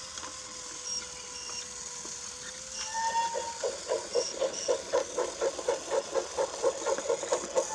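Battery-powered Brio wooden toy train running on its track: a steady motor hum, and about three seconds in a rhythmic pulsing of about four beats a second sets in.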